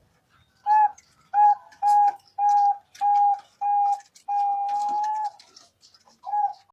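Zebra dove (perkutut) cooing. It gives six short, clear notes in an even rhythm, then one long held note, and one more short note near the end. This is the song used as a lure call to draw other perkutut.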